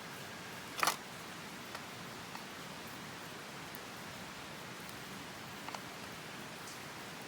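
Open wood campfire crackling: one sharp pop about a second in and a few faint ticks later, over a steady rushing hiss.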